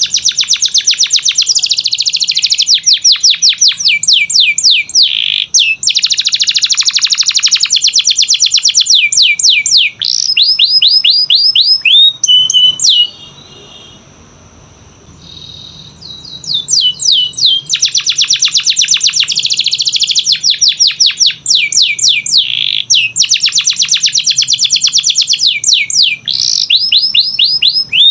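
Canary singing in fast trills of rapidly repeated, high sweeping notes. The song stops for about three seconds around the middle, then resumes with more trills.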